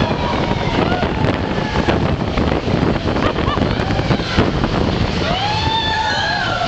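Mine-train roller coaster running along its track: a steady rumble and rattle with wind rushing past the microphone. Near the end a rising and falling whoop, likely riders' voices, rises over it.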